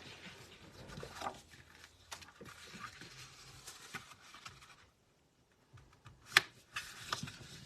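Cardstock being handled and folded on a work table: light paper rustles and small taps, with one sharp tap a little over six seconds in as the loudest sound.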